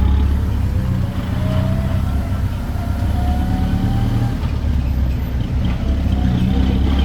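Engine of a tourist road train running under load, with a low, steady rumble. A whine rises slowly in pitch through the first few seconds and again near the end as it picks up speed.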